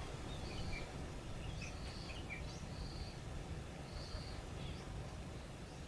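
Faint outdoor bush ambience: scattered bird chirps and a short, flat, high note repeating about once a second over a low, steady background noise.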